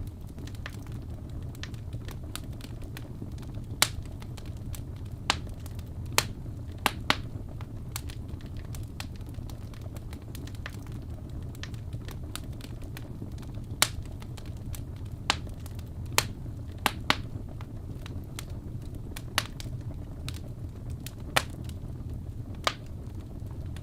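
Wood fire crackling in a fireplace: irregular sharp pops and snaps, about fifteen of them, scattered over a steady low rumble of the flames.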